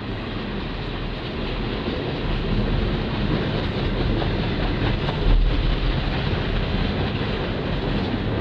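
Covered grain hopper cars of a long freight train rolling past, a steady rumble of steel wheels on rail.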